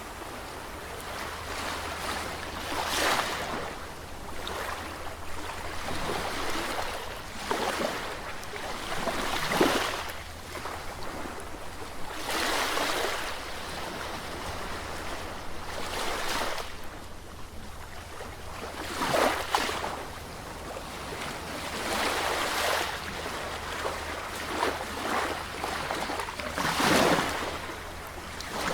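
Sea waves breaking and washing up the shore, one surge after another every few seconds, over a steady low rumble.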